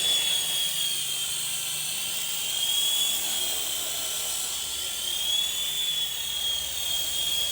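WLtoys V912 RC helicopter's electric motors running with a steady high whine that drifts slightly up and down in pitch every couple of seconds, over a hiss.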